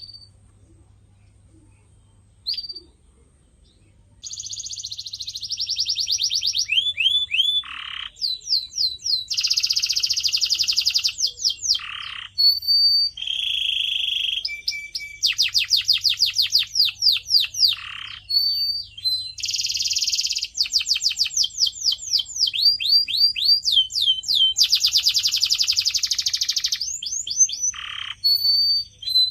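Domestic canary singing: a couple of short chirps, then from about four seconds in a long continuous song of fast trills, rolls and sweeping whistled notes.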